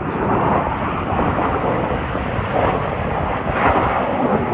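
Aircraft engine noise at an airshow: a loud, steady rush that swells a little in places.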